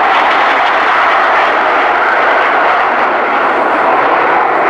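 Gloster Meteor NF.11 in flight, its twin Rolls-Royce Derwent centrifugal turbojets running with a loud, steady jet noise.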